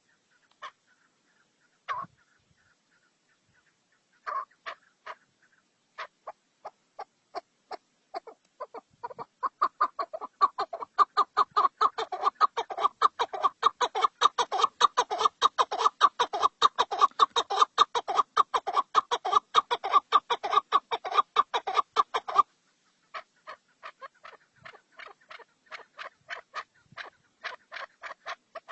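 Birds calling in a long run of short, sharp repeated notes. They are sparse at first, then about a third of the way in they build into a dense, fast chatter that breaks off suddenly, and sparser notes follow.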